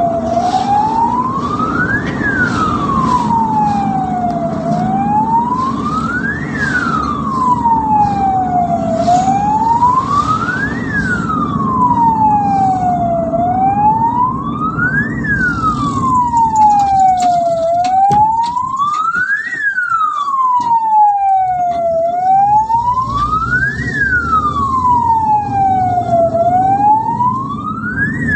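Ambulance siren in a slow wail, its pitch rising and falling about every four and a half seconds, over the steady rumble of the vehicle on the road. The rumble dies away for a few seconds past the middle while the wail carries on.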